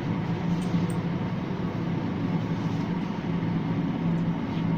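Steady, even mechanical hum inside an enclosed, ventilated Ferris wheel gondola as the wheel turns, strongest low in pitch and unchanging throughout.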